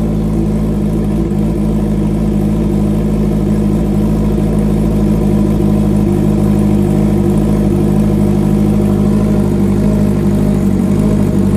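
A 2021 Honda CB650R's inline-four engine idling steadily through a full aftermarket exhaust system with a bomb-style muffler.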